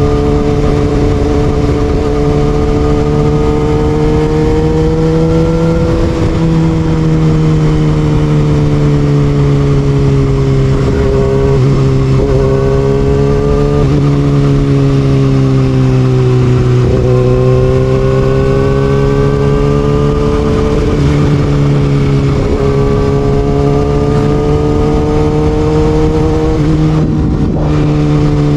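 Kawasaki ZX6R inline-four motorcycle engine with an Austin Racing aftermarket exhaust, ridden hard: its pitch climbs slowly and then drops sharply, over and over, as the rider accelerates and shifts or rolls off the throttle.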